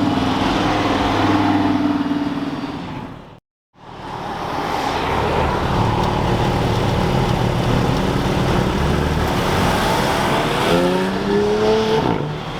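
Sports car engines running as cars drive past and pull away. There is a short cut to silence about three and a half seconds in, then another car's engine.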